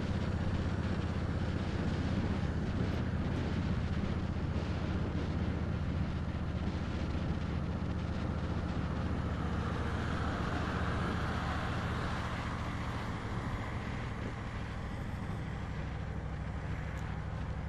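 2010 Honda Sabre 1300's V-twin engine running steadily while under way, with wind rushing over the microphone. A broader hiss swells briefly about ten seconds in.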